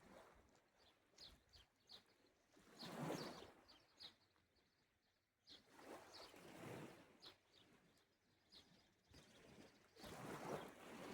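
Faint small sea waves washing onto the shore, three slow swells each a few seconds apart, with short bird chirps between them.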